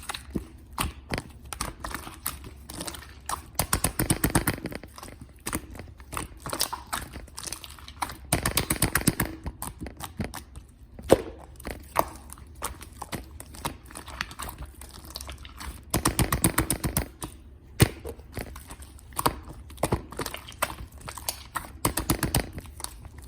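Hands kneading and mixing clay, making sticky clicks and crackling pops, with dense runs of rapid clicking every few seconds as the clay is squeezed and worked.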